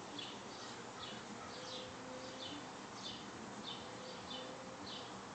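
A bird giving short, high, falling chirps over and over, about two a second.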